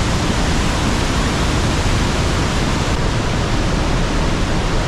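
Trümmelbach Falls, a glacier-fed waterfall cascading inside the mountain, pouring with a loud, steady rush of water that drowns out everything else.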